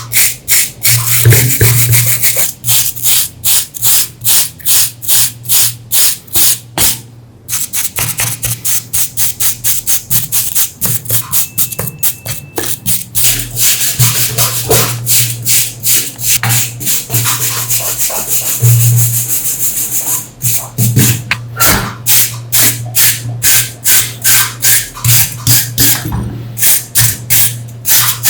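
Rhythmic back-and-forth rubbing strokes, about two to three a second, as a part of the old grinder is scrubbed or sanded by hand, with a steady low hum underneath and two short pauses.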